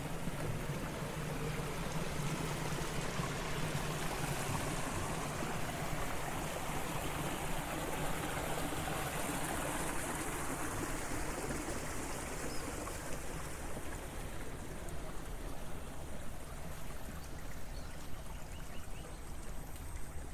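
Water rushing along an irrigation channel in a steady hiss, loudest about halfway through and then fading. A low hum runs under it for the first few seconds.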